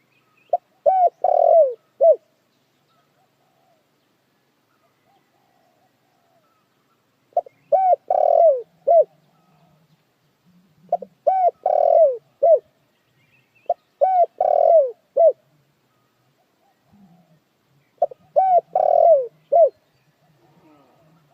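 Puter dekukur dove cooing: five phrases, each a quick run of short coos that fall in pitch, spaced a few seconds apart with one longer pause after the first.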